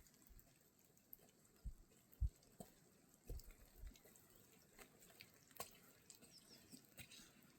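Near silence, broken by a few faint soft thumps and small clicks.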